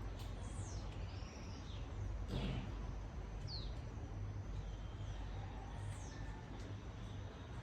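Steady rain falling, with birds calling over it in short, high, downward-sliding whistles, one louder call about two and a half seconds in.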